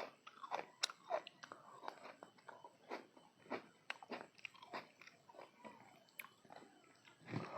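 A person chewing food close to the microphone: irregular crunches and wet mouth sounds, several a second, with no speech.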